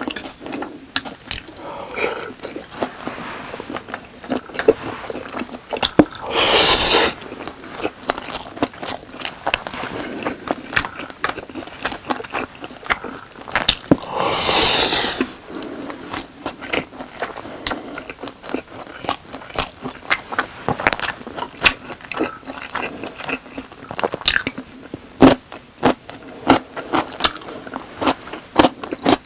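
Close-miked eating of spicy boneless fried chicken with rice: crunching bites, chewing and wet mouth clicks. Two louder rushing noises about a second long come roughly a quarter and a half of the way through.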